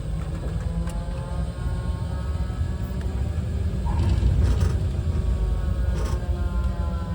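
Strong wind buffeting the phone's microphone in a heavy low rumble, with a faint whine of tower-crane machinery running underneath.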